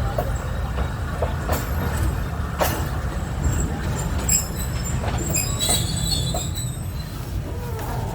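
Passenger train coaches rolling slowly through a station on arrival, with a steady rumble and scattered wheel clacks over the rail joints. High-pitched wheel and brake squeal rises about halfway through and fades a couple of seconds later.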